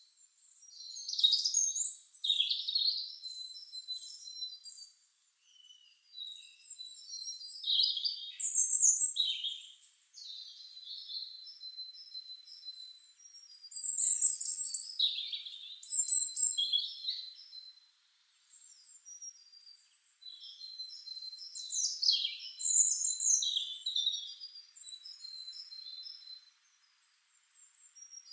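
Small songbirds singing: high-pitched chirps, trills and whistled notes in several bursts of a few seconds each, with short quieter gaps between them.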